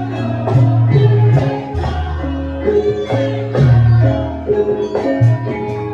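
Music from a Javanese gamelan-style ensemble: short repeating mallet-struck notes over a steady bass line.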